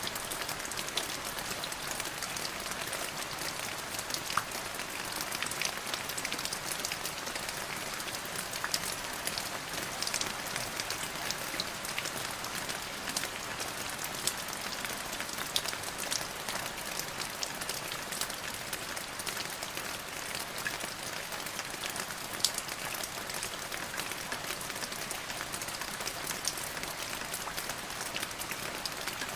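Steady rain falling, an even hiss with many individual drops pattering.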